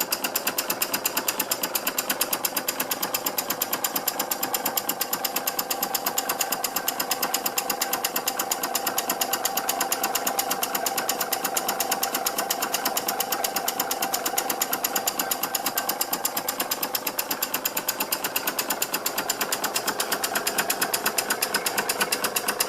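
Stuart No.8 model mill engine running on compressed air, its exhaust beating in a fast, even rhythm.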